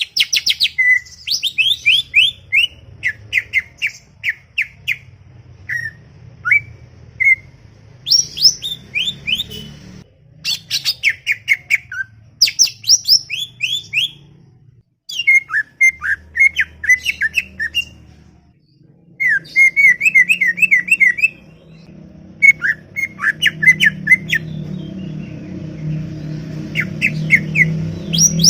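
Green leafbird (cucak ijo) singing chattily: quick runs of sharp, rapidly repeated chirps and whistled notes, in bursts a second or two long with short pauses between.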